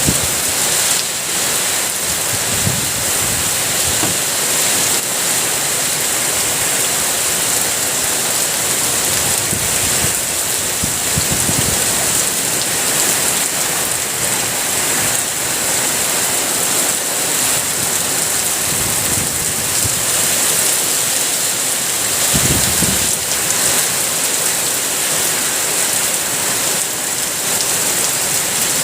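Heavy rain pouring steadily, a dense even hiss, with a few brief low rumbles swelling up beneath it.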